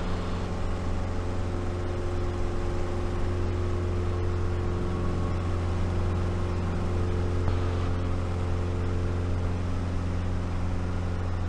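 Light aircraft's piston engine and propeller running steadily at climb power, a constant drone with no breaks.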